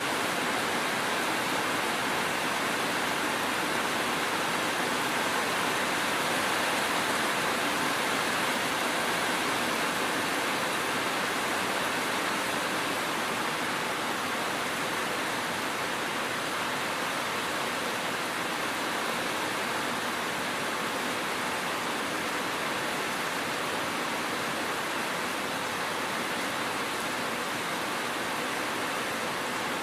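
Steady rainfall, an even, unbroken hiss with no separate drops standing out.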